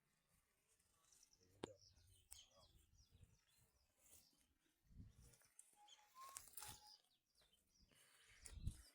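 Near silence outdoors, with faint scattered bird chirps, a sharp click about one and a half seconds in, and a couple of soft low thumps.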